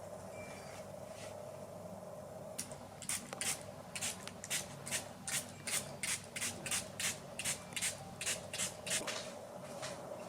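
Handheld trigger spray bottle misting, a quick run of about eighteen short spritzes at roughly three a second that starts a couple of seconds in and stops near the end, over a steady low hum.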